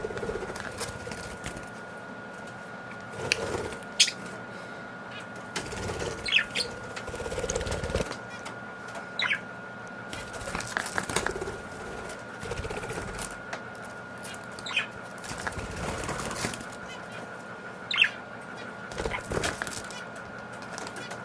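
Pet budgies fluttering their wings in short bursts as they fly and land, with a few brief sharp chirps scattered throughout.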